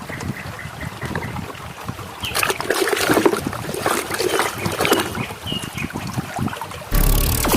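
Water splashing and trickling, with small irregular knocks, as muddy plastic toy airplanes are washed. Near the end a much louder sound with a heavy low end cuts in suddenly.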